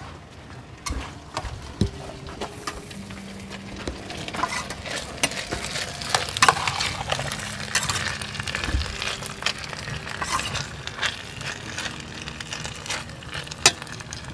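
Diced potatoes and onion sizzling in an enamel pot, stirred with a plastic spoon that scrapes and clicks against the pot.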